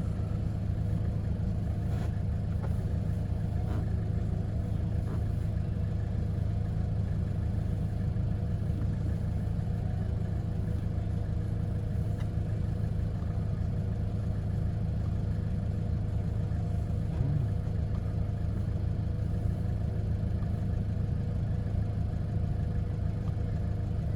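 Hyundai Porter II truck's engine idling steadily, a constant low hum, with a few faint light ticks near the start.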